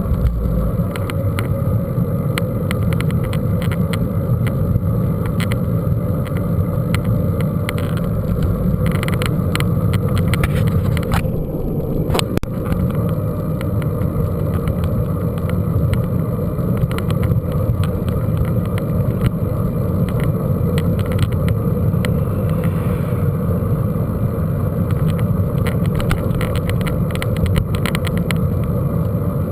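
Mountain bike being ridden over rough ground, heard from a camera on the bike or rider: a steady low wind rumble on the microphone with frequent clicks and rattles.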